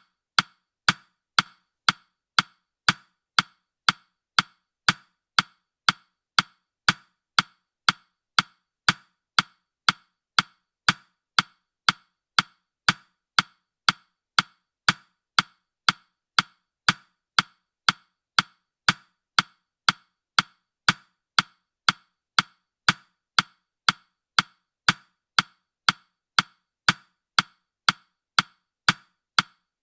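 Countdown-timer clock ticking sound effect: short, sharp, evenly spaced ticks, about two a second.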